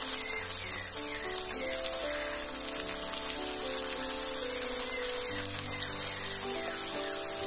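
Tomato slices and chopped garlic sizzling in hot oil in a frying pan, a steady crackling hiss, with soft background music of held notes underneath.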